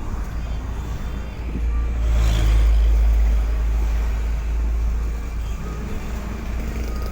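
Road vehicle running: a steady low rumble with road noise, growing louder about two seconds in and easing back a few seconds later.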